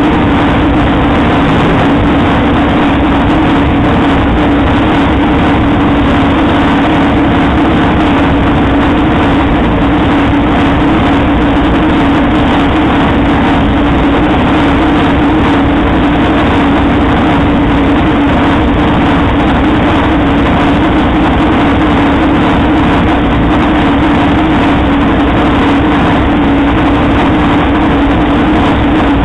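Turbocharged VW Beetle drag car's engine idling steadily, heard from inside the stripped cabin, with no revving.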